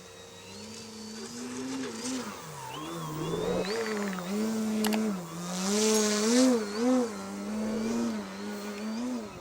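Electric motor and propeller of an OMP Hobby 60-inch Edge 540 aerobatic RC plane in flight, the pitch rising and falling as the throttle is worked. It grows louder toward the middle, with two short loud surges a little past halfway.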